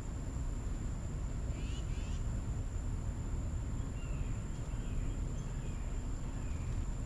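Small birds at a backyard feeder giving a few short chirps, a quick pair about one and a half seconds in and fainter ones later, over a steady low outdoor rumble and a thin, steady high-pitched whine.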